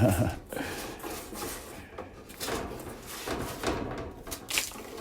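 Scattered light knocks, clicks and scraping, roughly one or two a second, from hands handling the parts of a clothes dryer that has been opened up for repair.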